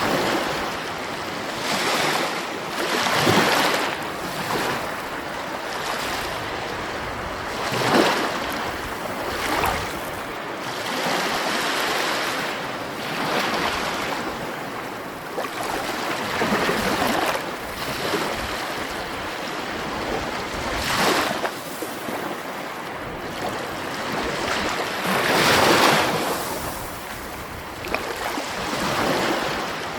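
Sea waves breaking and washing ashore, each surge swelling and fading about every four to five seconds over a steady hiss of surf.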